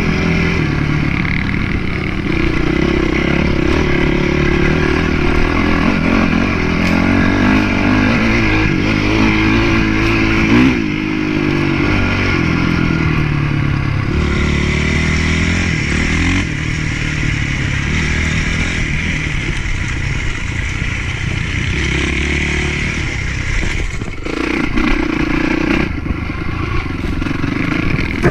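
Honda CRF450 motocross bike's single-cylinder four-stroke engine revving up and down as it is ridden around a dirt track. The throttle opens and closes repeatedly, with brief drops in pitch as the rider backs off, over a steady rush of wind noise.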